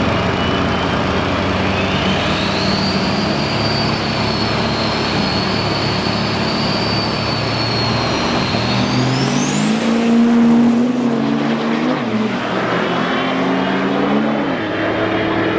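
Turbo-diesel drag-racing trucks running hard at the strip: a high turbocharger whistle climbs in pitch about two seconds in, holds, then shoots much higher near the middle as an engine note rises and holds for several seconds.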